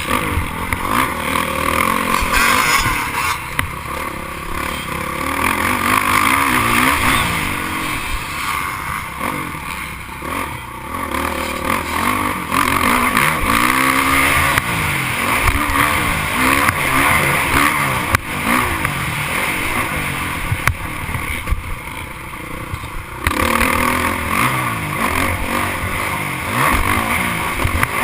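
Motocross dirt bikes racing, their engines revving up and dropping back over and over as they pass.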